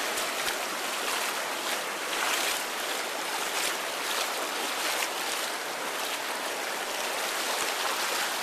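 Rain-swollen stream rushing and splashing steadily over its bed, a close, even wash of water noise.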